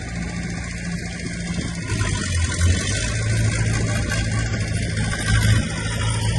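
Diesel engine of heavy earthmoving machinery running steadily, growing louder about two seconds in.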